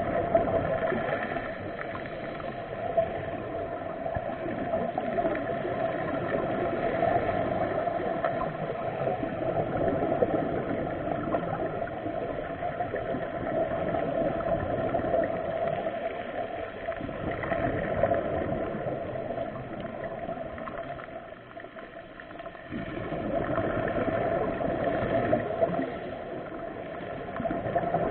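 Muffled rushing and gurgling of water over a steady drone, swelling and fading every few seconds.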